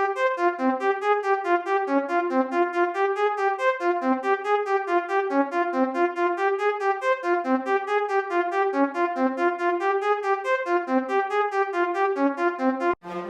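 u-he Triple Cheese software synthesizer playing a fast arpeggio of short, keyboard-like notes, about five or six a second, rising and falling in pitch. It cuts off suddenly near the end.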